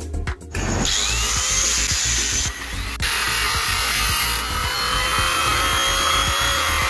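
A power tool working on material, starting about half a second in and running steadily with a faint whine that rises and falls, over background music with a steady beat.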